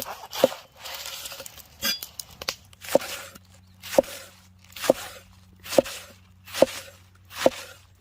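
Regular rhythmic knocks, a little more than one a second, each a short swish ending in a sharp knock, with a low steady hum coming in about a third of the way through.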